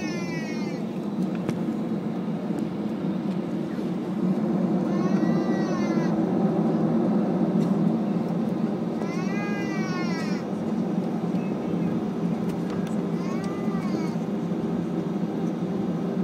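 A cat meowing again and again, four short calls each rising and falling in pitch, about four seconds apart, over the steady low drone of an Airbus A321 cabin.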